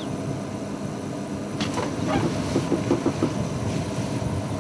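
Safari game-drive vehicle's engine running with a steady low hum, a few light knocks partway through, and a short falling bird chirp right at the start.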